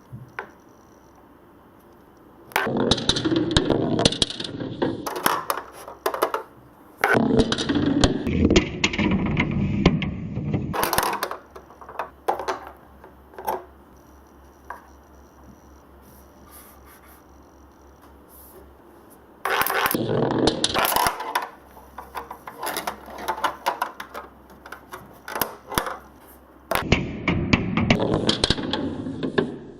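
Balls rolling and clattering down a twisting marble run track: four runs of dense rattling, each a few seconds long, with scattered single clicks between them as stray balls roll and drop.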